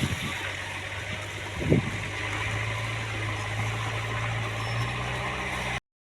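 JCB 3DX backhoe loader's diesel engine running steadily, with a single knock about two seconds in. The sound cuts off suddenly near the end.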